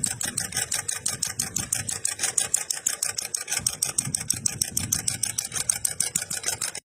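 Small model four-stroke gasoline engine, styled as an antique hot-bulb tractor engine, running with an even, rapid clicking beat over a low rumble. The sound cuts off suddenly near the end.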